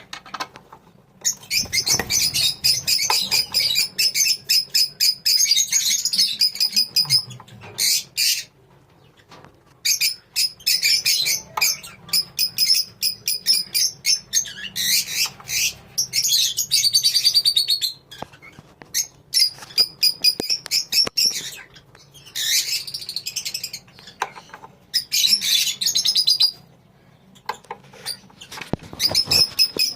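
A colony of lovebirds chattering, rapid high-pitched twittering and squawks in bursts of several seconds separated by short pauses.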